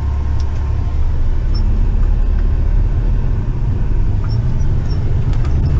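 Heavy tipper truck's diesel engine running, a steady low drone with no change in pitch.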